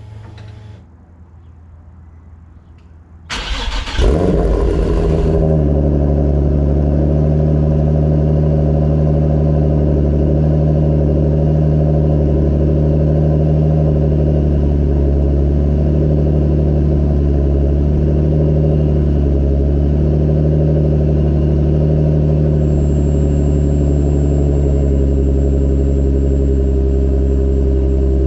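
Vortech-supercharged Infiniti G35 V6 cold-started through Megan Racing headers, test pipes and a Motordyne TDX2 exhaust: it cranks and catches about three seconds in with a brief loud flare, then settles into a loud, steady cold idle.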